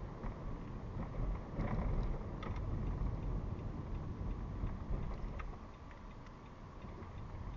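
Car driving, heard from inside the cabin through a dashcam: a steady low rumble of road and engine noise that eases off a little about five and a half seconds in, with a few faint clicks.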